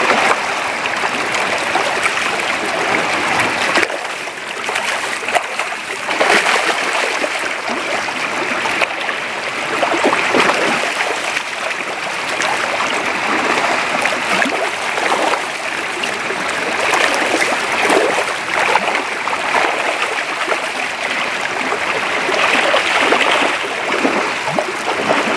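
Creek water running steadily, with louder splashy surges every few seconds.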